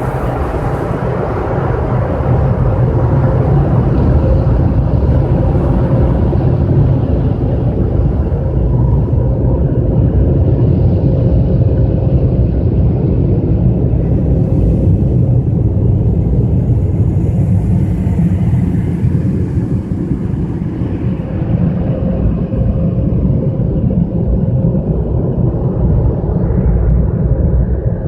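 Automatic car wash machinery running with a loud, steady low rumble, its higher hiss fading away over the second half.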